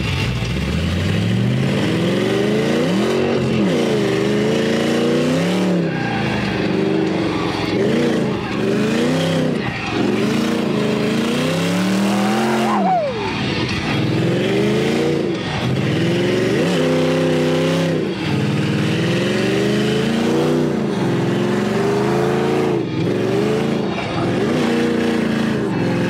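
Ford Mustang 5.0 V8 engine revving up and falling back over and over as the car is thrown through a drift run, heard from inside the cabin.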